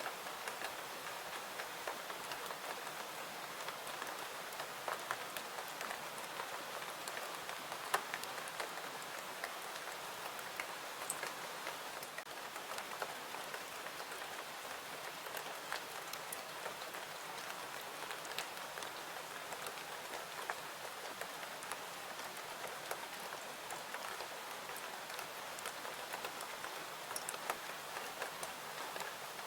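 Steady rain falling, an even hiss with scattered small sharp clicks through it, one stronger click about eight seconds in.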